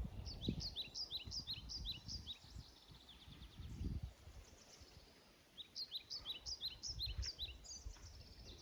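A songbird singing two runs of quick, repeated high chirps that sweep downward, with a pause between them, over low rumbling.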